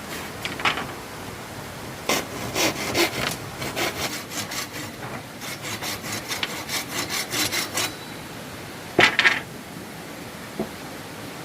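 Hand saw cutting wood in a run of quick, even strokes lasting about six seconds, followed by a sharp knock of wood on wood.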